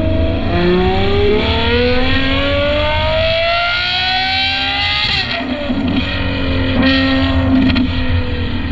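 Ferrari 812 GTS naturally aspirated V12 through a Novitec Inconel exhaust, accelerating hard with the pitch rising steadily for about five seconds. The note then drops back to a lower, steadier run, with a couple of sharp cracks near the end.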